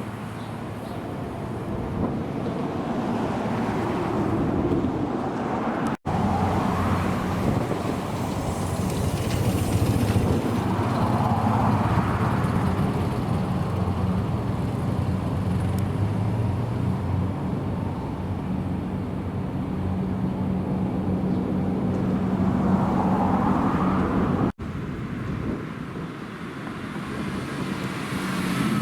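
Supercar engines running in a car park, a steady low engine note with slow swells in level, cutting out abruptly for an instant twice.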